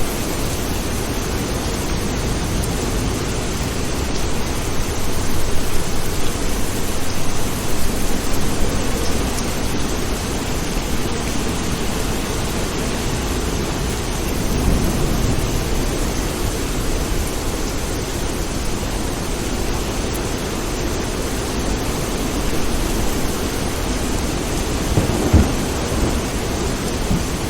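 Steady heavy rain with thunder rumbling. The low rumble swells several times, about a third of the way in, again near the middle, and with a sharper crack near the end.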